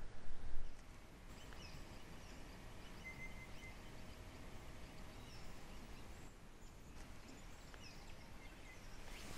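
Quiet bush ambience with faint, scattered bird calls, short chirps high in pitch. A louder low rumble fills the first second and stops suddenly.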